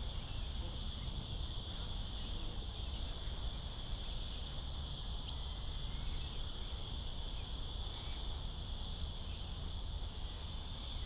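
Steady chorus of insects, crickets or the like, chirring without a break, over a low steady rumble.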